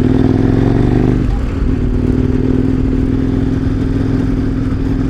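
KTM 1090 Adventure R's V-twin engine running under way; the engine note drops about a second in and then holds steady.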